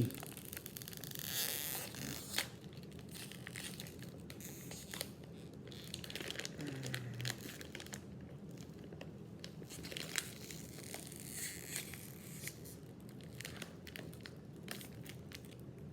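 Crinkly plastic snack bag of Combos being handled, rustling and crackling in short irregular bursts.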